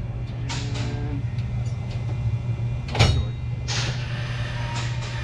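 A steady low hum runs throughout, with several sharp knocks and clicks of parts and tools being handled during radiator hose work. The loudest knock comes about three seconds in.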